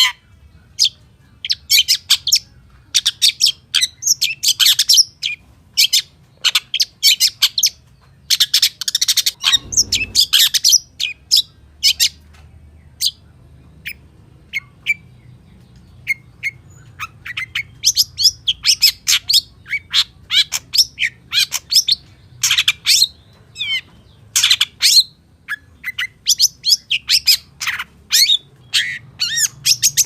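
Long-tailed shrike singing a fast, chattering song of short, sharp notes in quick runs, packed with mimicked calls, with a short lull about halfway through. A dull knock sounds about ten seconds in.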